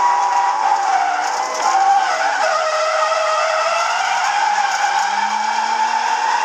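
Nissan RB25DET Neo6 turbocharged straight-six running, with a strong, wavering high whine over the engine note and a lower tone that climbs near the end. The whine is of the kind the owner lists as a symptom of the engine's fault.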